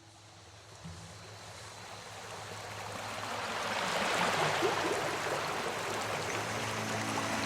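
Rushing water of a jungle waterfall, a steady hiss of falling water that fades in and grows louder through the first half, then holds.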